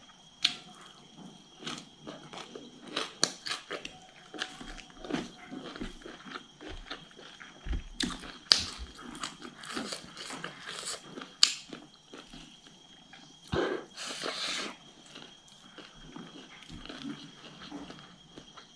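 Close-miked chewing of raw winged bean pods: crunchy bites with wet mouth clicks and smacks coming irregularly throughout, and a louder noisy burst lasting about a second about three-quarters of the way through.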